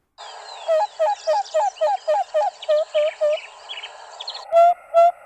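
Acacia pied barbet giving its song, a fast series of short, low hooting notes about three a second, with faint twittering from other birds behind it. Near the end a louder, cleaner series of the same evenly spaced hoots begins.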